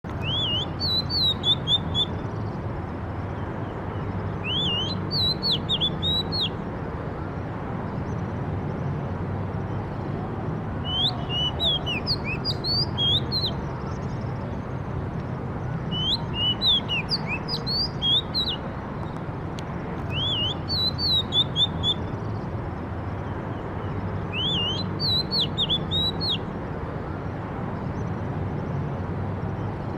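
A songbird singing short phrases of quick, rising and falling whistled notes, repeated about every five seconds, over a steady low background rumble.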